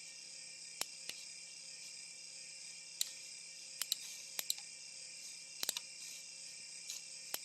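Scattered sharp clicks, single and in quick pairs, from the controls of an ASUS Vivobook laptop being operated during Windows 10 setup, over a steady high hiss.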